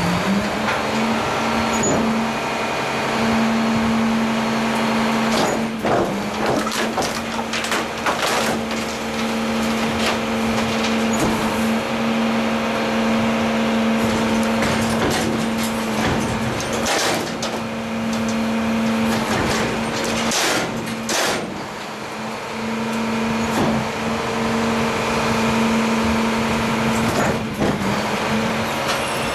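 Truck engine running loud and steady at raised speed, its pitch climbing at the very start and then holding, with scattered knocks and clanks.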